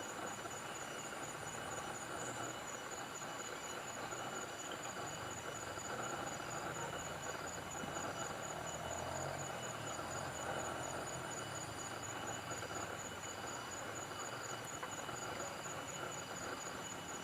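Steady, high-pitched pulsing trill of insects, with a short note repeating at an even pace beneath it and a constant faint background hiss.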